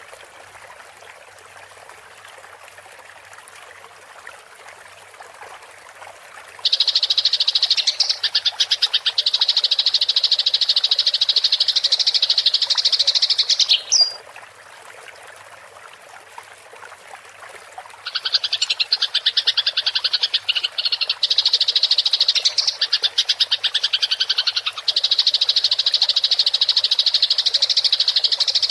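Eurasian tree sparrow's rapid, rolling chatter, the fighting song of this species, in two long, loud bouts: one starting about a quarter of the way in, the other starting just after the middle and running on. Faint running water hisses before and between the bouts.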